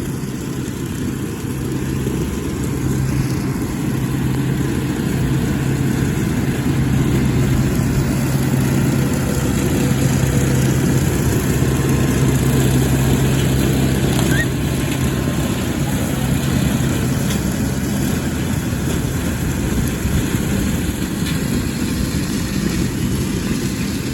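Farm tractor engine running steadily with a low hum, growing a little louder toward the middle and easing off near the end.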